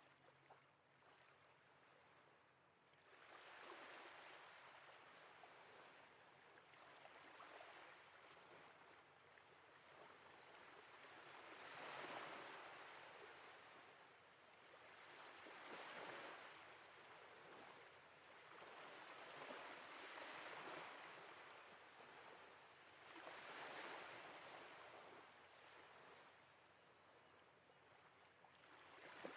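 Faint sea waves washing in gently, one swell about every four seconds.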